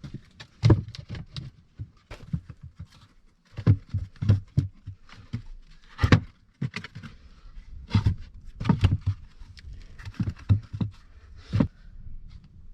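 Irregular knocks, thuds and clicks of objects being handled and set down, some with a dull low thump.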